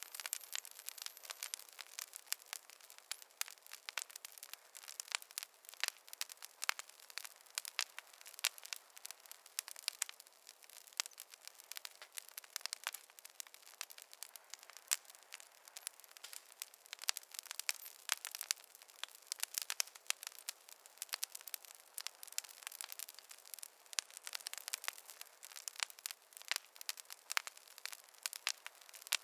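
Wood campfire crackling, with many small irregular pops and snaps over a faint hiss.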